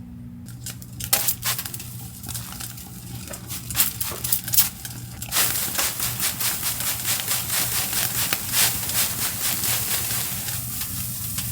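Heated maekbanseok sauna stones crackling and sizzling: scattered sharp cracks at first, then about halfway through a dense, steady sizzling crackle that fades near the end.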